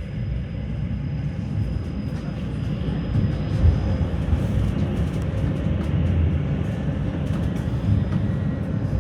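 Tram running on its rails, heard from inside the passenger car: a steady low rumble of wheels and motors that grows slightly louder as it gathers speed, with a faint steady high whine and scattered light clicks.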